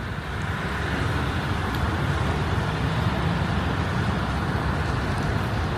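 Steady road-traffic noise: a low rumble of vehicles under an even hiss.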